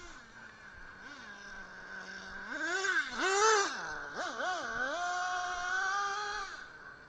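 Brushless electric motor of a 1/8-scale RC buggy running on a 3S battery, its whine rising and falling with the throttle. The loudest, highest burst comes about three seconds in, then the pitch climbs again, holds for a second or so, and drops off near the end.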